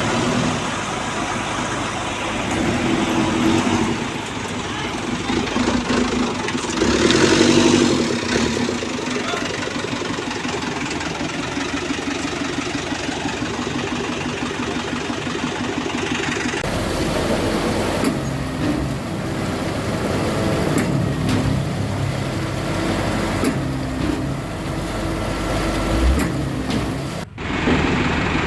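Mini concrete mixer truck's engine running steadily. Its sound changes about sixteen seconds in, and it breaks off sharply for a moment near the end.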